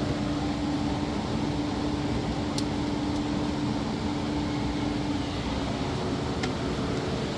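Steady rushing mechanical noise with a low hum through the first five seconds, and a couple of faint ticks.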